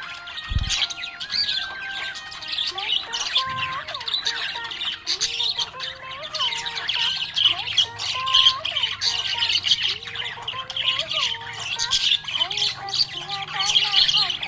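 Budgerigars chirping and chattering nonstop in fast, high twitters, with a slower line of held, stepping notes beneath them.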